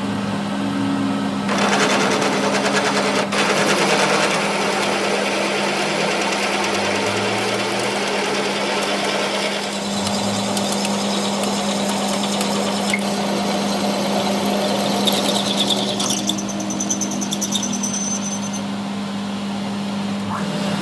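Metalworking machinery running with a steady hum, with a long stretch of rapid, rattling mechanical noise in the first half and a brief high-pitched squeal near the end.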